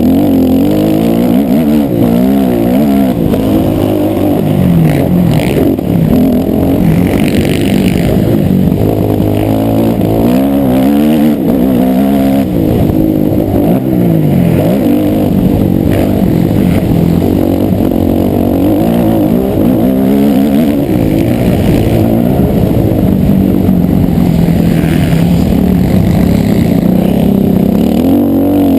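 Motocross motorcycle engines revving, their pitch rising and falling again and again, with more than one engine sometimes overlapping.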